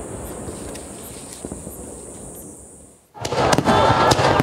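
Aerial fireworks: the rumbling tail of a big shell burst dies away. About three seconds in, after an abrupt cut, comes a dense crackling of many sharp pops from glittering crackle stars.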